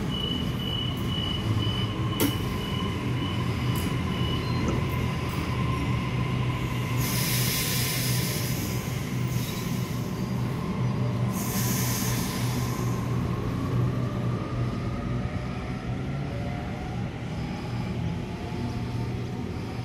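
Double-deck electric suburban trains at a station platform: a steady low hum of the train, with a thin high squeal and whine at first. Two hissing bursts of about two seconds each come in the middle, and a motor whine that shifts in pitch near the end.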